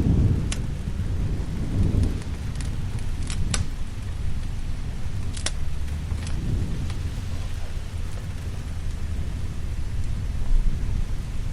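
Steady rain with deep thunder rumbling, swelling at the start and again about two seconds in. A crackling fire sends out scattered sharp pops over it.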